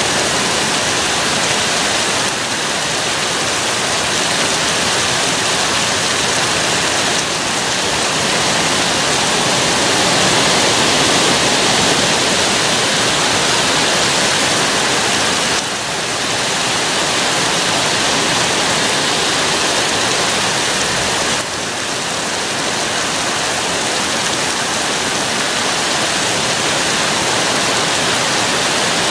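Heavy thunderstorm rain pouring steadily, a dense, even hiss.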